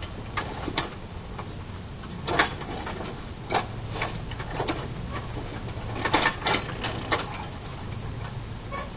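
Irregular sharp clicks and knocks, about a dozen, some in quick pairs, over a faint low steady hum.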